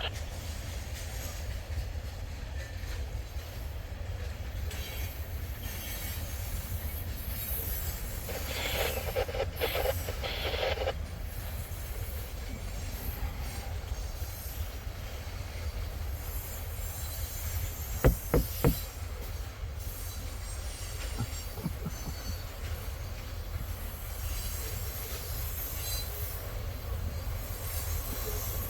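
CSX freight train rolling past: steel wheels on rail with a steady low rumble and some high-pitched wheel squeal. Three sharp clacks come close together about eighteen seconds in.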